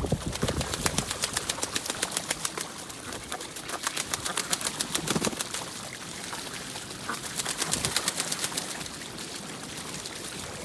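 Ducks on a pond: a rapid fluttering patter of many quick beats a second, like wings flapping, fading near the end.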